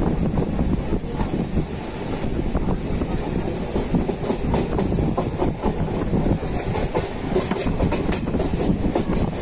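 Train running at speed, heard from aboard a carriage: a steady rumble of wheels on the rails with clicking over the rail joints, the clicks coming thicker in the last couple of seconds.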